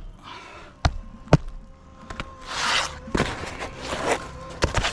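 Hand work on a shingle roof: sharp knocks of a tool striking, two of them about a second in and a quick pair near the end, with a rough scraping rustle of shingles being worked in between.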